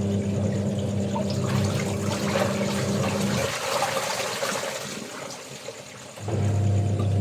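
Water running and splashing during laundry washing, with a steady low motor hum that stops about three and a half seconds in and starts again near the end.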